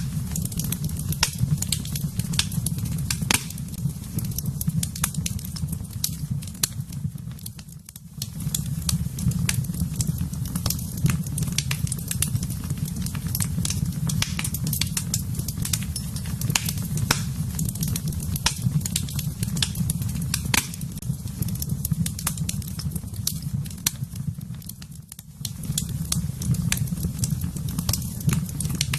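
Fireplace fire crackling, with frequent sharp pops over a steady low rumble of flames; the sound dips briefly twice.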